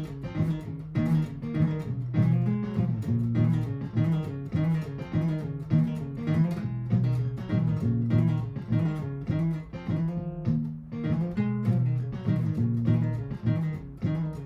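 Martin GPCPA4 acoustic guitar playing improvised plucked lines over a repeating looped guitar accompaniment from a looper pedal.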